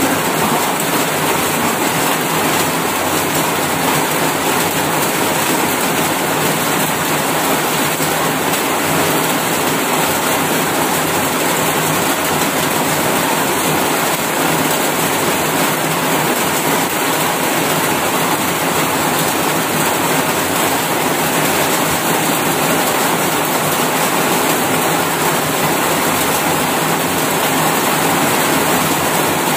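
Heavy rain falling, a steady, even rushing hiss that does not change.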